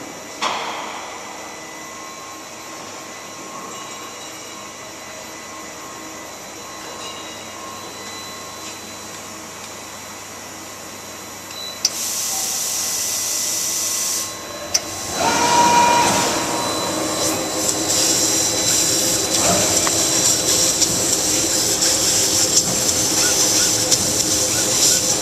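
LVD laser cutting machine running with a steady low hum, then a sudden loud hiss about halfway in that cuts off after a couple of seconds. A louder, steady hiss with crackling then starts and keeps going as the machine cuts, typical of assist gas blowing through the cutting head.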